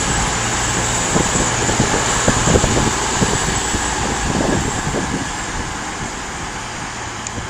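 Class 221 Voyager diesel multiple unit standing at the platform with its underfloor diesel engines idling: a steady low hum under a noisy hiss, with a few scattered knocks in the first few seconds. The sound eases off a little after the halfway point.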